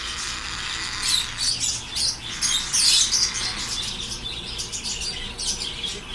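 Many small caged birds chirping at once, a dense chorus of short, overlapping high tweets.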